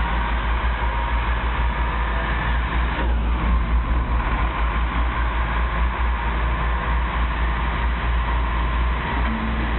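Steady vehicle noise: a continuous low rumble with a hiss over it and a faint steady whine, shifting slightly about three seconds in.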